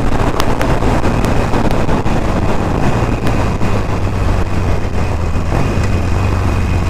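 Motorcycle engine running at a steady cruise while riding, a constant low drone under road and rushing noise, with a few sharp cracks in the first few seconds.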